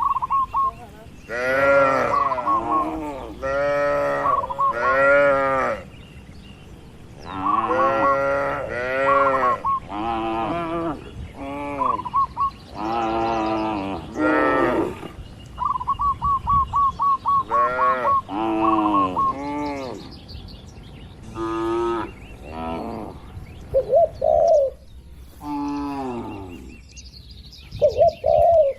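Cattle mooing, many separate moos from several animals one after another, each rising and falling in pitch.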